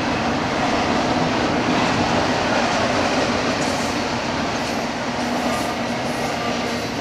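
A freight train's cars rolling past on the rails, a steady, fairly loud noise of wheels on track.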